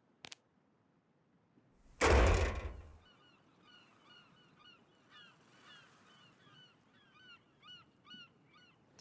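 Cartoon sound effects: a faint click, then a heavy thump about two seconds in, followed by a quiet run of short high chirps, several a second, that bend up and down in pitch.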